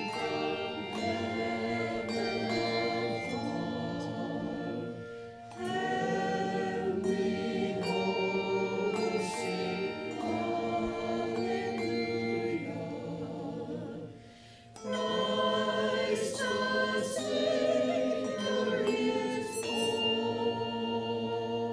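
A church choir singing, with short pauses between phrases about five seconds in and again about fourteen seconds in.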